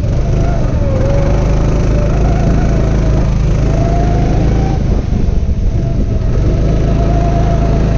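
Go-kart engine running on the track, its pitch wavering slightly with the throttle, dipping about a second in and climbing near the end, over a heavy low rumble.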